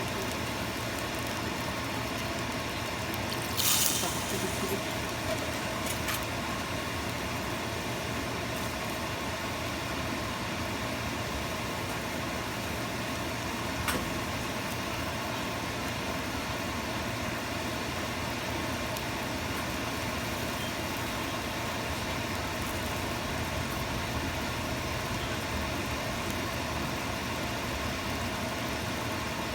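Steady noise of a covered pot of chicken and black beans simmering on the stove, with a brief clatter about four seconds in.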